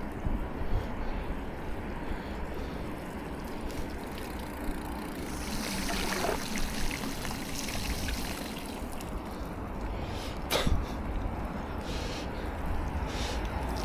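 Bicycle riding on a wet road: steady wind rumble on the action-camera microphone under a hiss of tyres and water. The hiss swells for a second or two about six seconds in, and there is a sharp click a little after ten seconds.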